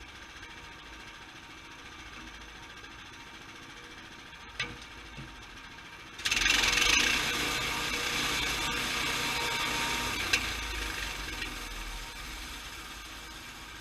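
Sawmill running steadily, with a single click about four and a half seconds in. About six seconds in, a loud, noisy cutting sound starts abruptly, the saw going into the log, then fades away over several seconds.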